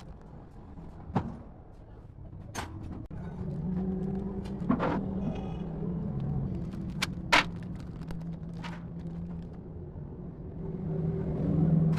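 A low engine hum that starts about three seconds in and swells near the end, with about six sharp clicks or knocks scattered over it.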